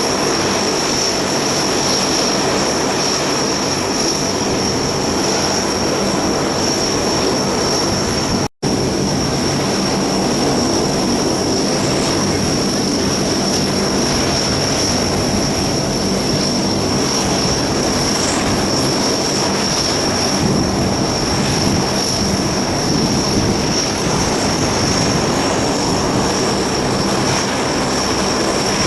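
Lockheed P-3C Orion's four Allison T56 turboprop engines running steadily and loudly, a dense propeller and engine roar with a constant high-pitched turbine whine over it. The sound drops out for a split second about eight seconds in.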